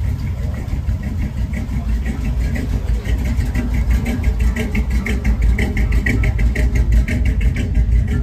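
Classic car engine idling with a steady low rumble and a fast, even pulse.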